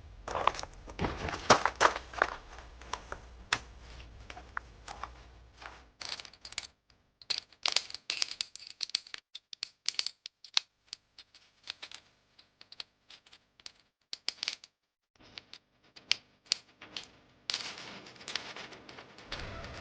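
Irregular clicks, taps and light clatter, like small objects being handled. They come thickly for the first few seconds, then sparser, with short near-silent gaps in between.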